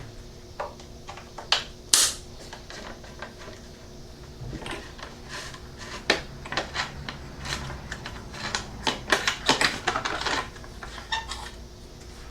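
Irregular clicks, taps and light knocks of hands, parts and tools being handled during hands-on work on a motorcycle, with a sharp knock about two seconds in and a busier run of clicks around eight to ten seconds.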